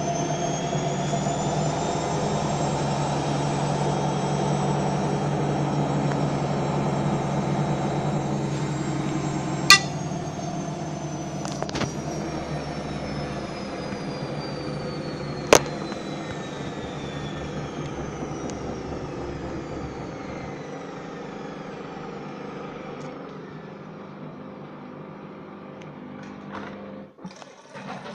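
Gorenje WA50060 washing machine's drum and motor spinning down, a high whine that climbs briefly and then falls slowly in pitch over some twenty seconds above a steady hum. Two sharp clicks come along the way, and near the end the sound drops away.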